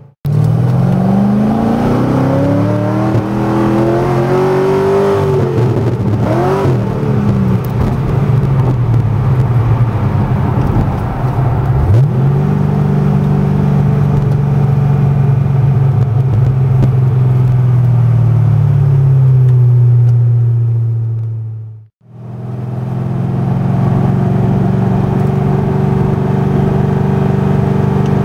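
Corvette C6 Z06's LS7 V8 through Melrose long-tube headers and Billy Boat Fusion mufflers, accelerating with the pitch climbing through the gears, with a shift drop a few seconds in and another climb near the middle. It then holds a steady cruise before cutting out briefly and coming back, rising again at the end.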